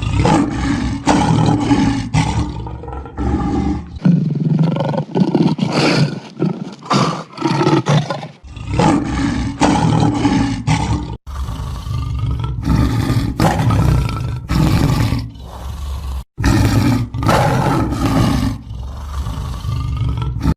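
Lion roaring and growling over and over, a run of loud roars edited together from several recordings, with abrupt cuts about 11 and 16 seconds in.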